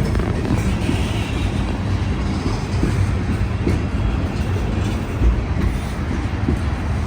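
A train rolling past close by: a loud, steady low rumble of wheels on the rails.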